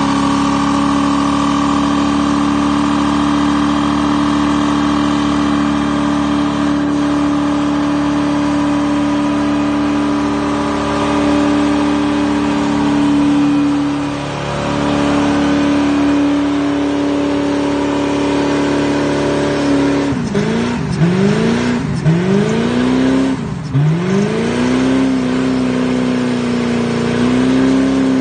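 Corvette engine held at high revs during a burnout, with the rear tyres spinning in smoke, its pitch steady for about twenty seconds. After that the revs drop and climb again several times in quick succession, then settle back high near the end.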